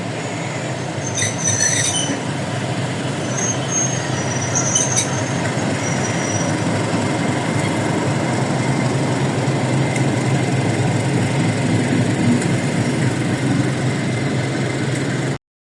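Train running along the rails, a steady rumble with brief high wheel squeals about a second in and again around five seconds in. The sound cuts off suddenly near the end.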